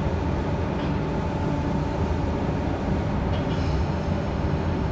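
Passenger train carriage interior while the train is moving: a steady rumble of running noise with a few faint steady tones.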